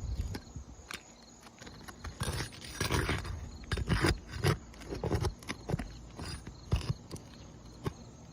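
Irregular knocks and scuffs on an asphalt shingle roof, like footsteps and handling of the shingles, heaviest in the middle few seconds.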